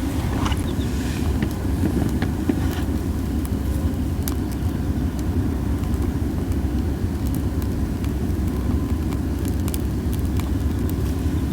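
Cherry-wood campfire burning, with scattered sharp crackles and pops over a steady low rumble of strong wind. A hissing runs under it, which the uploader puts down to the wind and to wood that was not dried enough.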